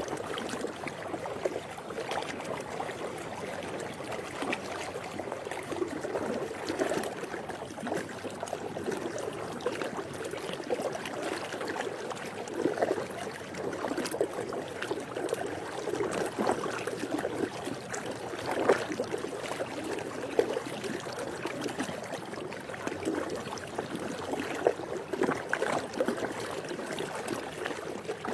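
Swimming-pool water lapping and gurgling, a steady wash of small splashes and trickles.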